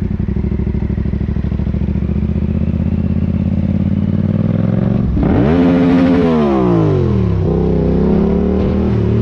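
Motorcycle engine running steadily, then revving up about five seconds in and dropping back over the next two seconds.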